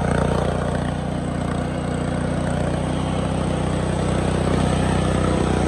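Small single-cylinder riding lawn mower engine running at a steady speed, its pitch holding even without revving.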